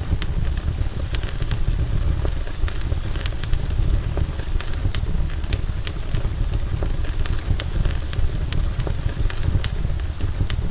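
Wood campfire burning: frequent sharp crackles and pops from the burning wood over a steady low rumble.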